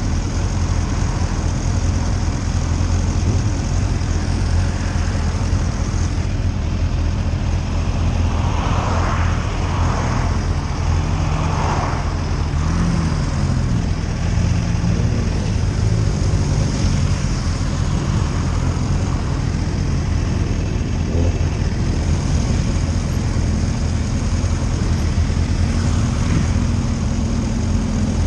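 Motorcycle engine running steadily while under way, with wind rush over the microphone. The engine pitch rises and falls a little with the throttle, around the middle and again near the end.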